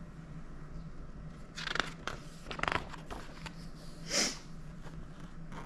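Handling of a picture book: a few soft clicks and rustles, then a short breathy sound about four seconds in, over a steady low hum.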